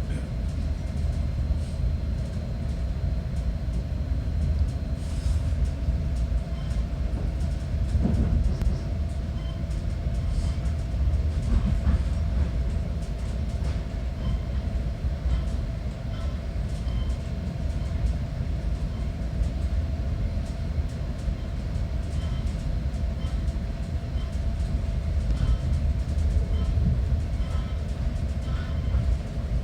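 Metra diesel commuter train running with a steady low rumble and a constant hum, and faint scattered clicks over it.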